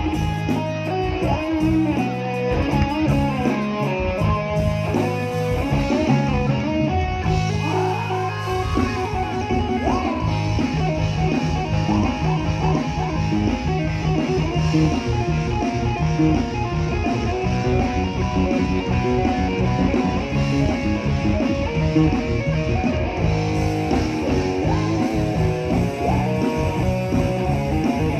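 Live band music led by electric guitar over bass and drums, played at a steady level.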